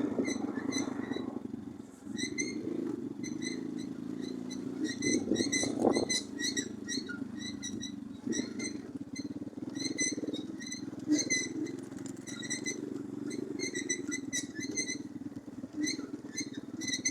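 Orion-100 moped engine running at low revs, with short high squeaky chirps repeating irregularly, several a second, over it.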